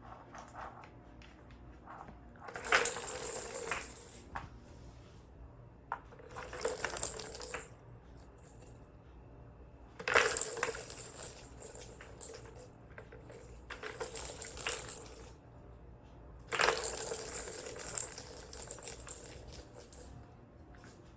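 A cat's ball toy rattling and jingling as a kitten bats it around: five separate bursts, each a second or two long, with quiet stretches between.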